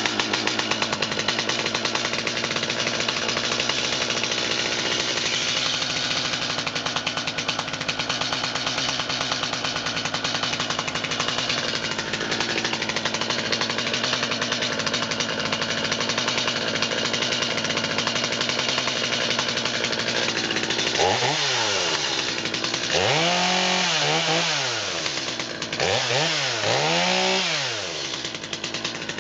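Stihl MS250 two-stroke chainsaw running steadily at high revs as it cuts black locust. About 21 seconds in it is revved up and down four or five times in quick succession.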